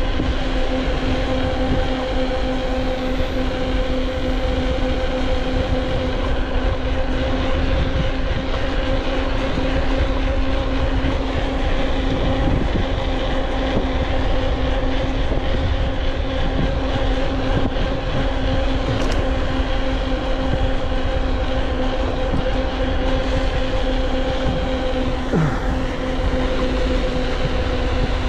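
Motor vehicle engine running at a steady speed: a constant loud drone with a low rumble under it.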